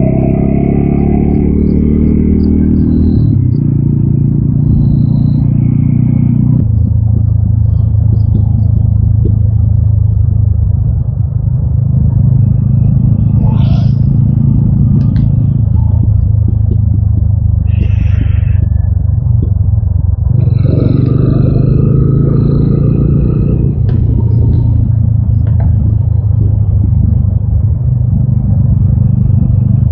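TVS Apache RTR 200 4V's single-cylinder engine running under way, heard from the rider's seat. The engine note steps down twice in the first seven seconds, then holds a steady cruise. A few brief higher tones join in now and then.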